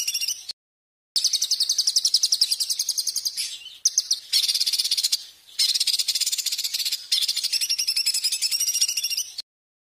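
Songbird singing a rapid, high-pitched trill in repeated phrases of one to two seconds with short breaks, with a few looser notes about four seconds in. It stops abruptly near the end.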